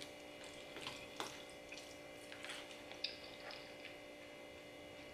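Faint wet chewing and mouth sounds of someone eating pasta, with a few small clicks scattered through, over a faint steady hum.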